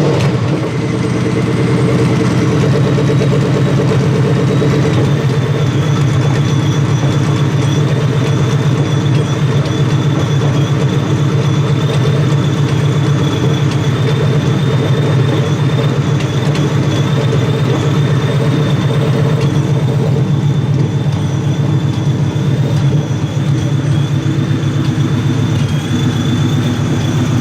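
Supercharged Ford 4.6-litre 2V V8 idling steadily just after being started, running through open exhaust dump turn-downs straight off the X-pipe with no mufflers or resonator.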